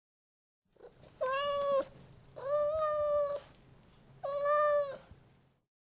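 Domestic cat meowing three times, each meow a steady, drawn-out cry.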